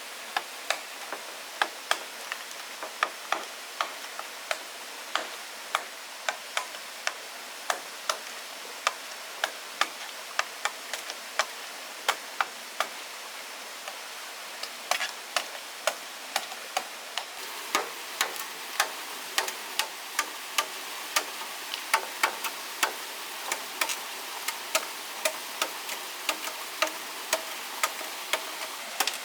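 Crackling of a cooking fire: irregular sharp pops over a steady hiss, coming faster from about halfway through.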